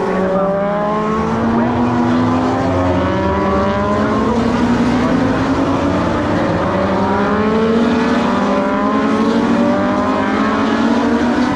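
A pack of Grand Prix racing motorcycles accelerating past. Several engines overlap, each rising in pitch and dropping back with each upshift, over and over.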